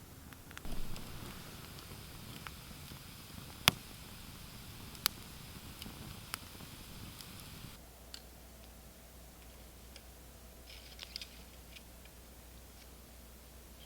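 A few sharp, scattered clicks and pops over a faint hiss, the loudest two about a second and a half apart; after about eight seconds the hiss drops away and only faint clicks remain.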